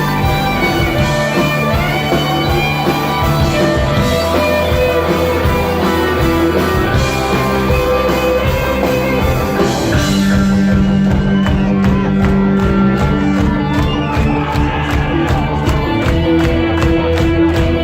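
Rock band playing an instrumental passage led by guitar. About ten seconds in the sound changes and a steady ticking cymbal beat comes in, a few strokes a second.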